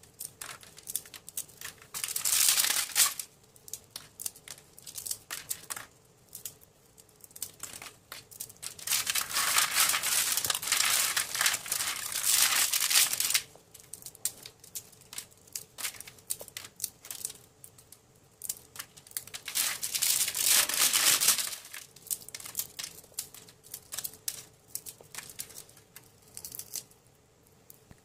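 Crisp, oven-baked caramel-coated popcorn crackling and crunching as clumps are broken apart by hand, in several louder bursts of dense crackles with quieter scattered clicks between them.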